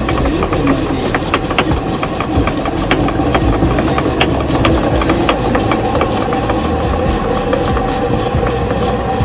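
Traditional water-powered grain mill (ghatta) running: the water-driven millstone turning and grinding with a steady rumble and hum, over many rapid, irregular clicks and knocks.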